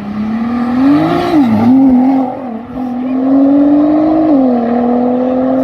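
Car engine accelerating hard, loud: the pitch climbs, drops sharply at a gear change about a second and a half in, climbs again, then settles lower and holds steady after another drop near the end.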